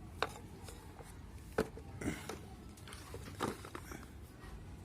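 Ceiling fan being taken apart: about four sharp clicks and knocks of tools and metal parts as the centre nut is worked loose. The loudest knock comes about one and a half seconds in.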